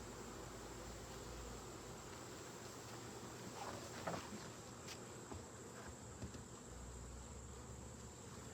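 Faint, steady buzzing of honeybees around an opened hive, with a couple of soft taps about four to five seconds in.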